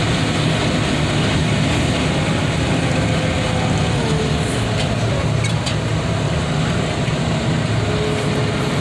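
Heavy machinery engine running steadily at a constant pace, with a faint wavering whine over its low drone.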